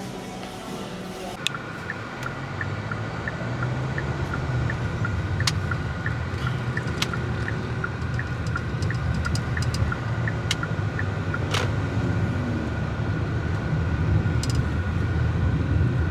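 Car cabin sound of a car on the move, a steady low engine and road rumble. For about the first ten seconds the indicator ticks in an even tick-tock, about three ticks a second, then stops. A few single sharp clicks sound along the way.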